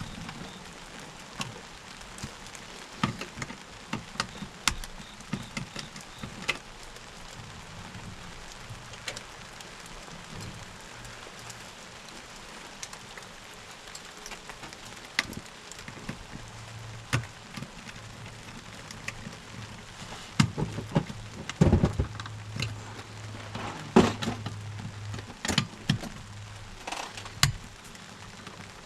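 Steady rain falling, with scattered drop clicks throughout. About halfway through a low steady hum comes in, and in the second half there are several louder knocks and clatters, as of tools or parts being handled.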